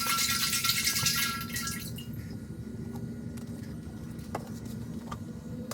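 Used motor oil being poured from a jug into a used-oil drum: a dense rattling splash for about the first second and a half, then only a quieter steady hum with a few light clicks.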